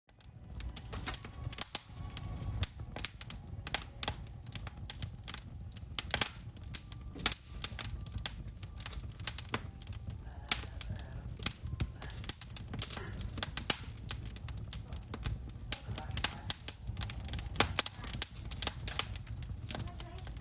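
Wood fire crackling in a fireplace: a dense, irregular run of sharp snaps and pops over a steady low rumble.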